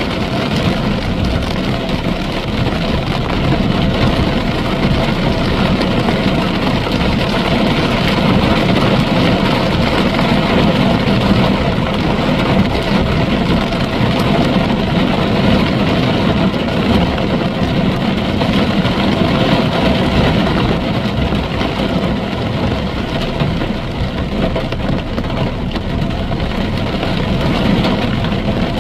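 A vehicle's engine running steadily under a constant wash of noise, with no distinct knocks or changes.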